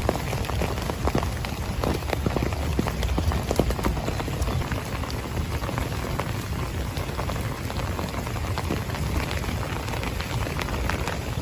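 Steady heavy rain, with many separate drops tapping close by.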